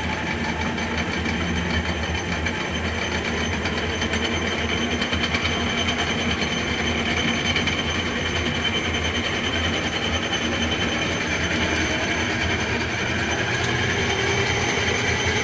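Logan Powermatic 6561 lathe running in back gear, its spindle drive and gear train rattling steadily as the variable speed is brought up from the lowest setting, growing gradually louder.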